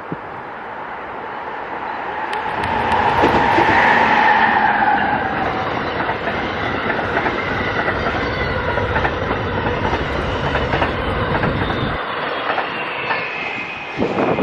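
Amtrak Crescent passenger train passing at speed, its wheels clicking over the rail joints. It grows loud about three seconds in, and its deep rumble drops away near the end.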